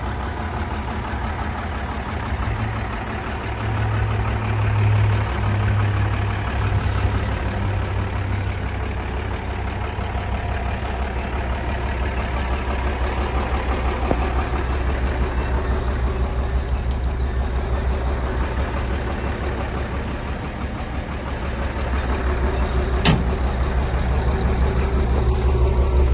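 Mercedes-Benz 1113 truck's inline-six diesel engine running steadily, its note swelling for a few seconds around five seconds in. A single sharp click sounds near the end.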